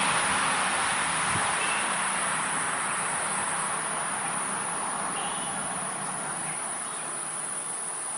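Steady, high-pitched drone of an insect chorus, with a broad rushing noise that fades away over the first few seconds.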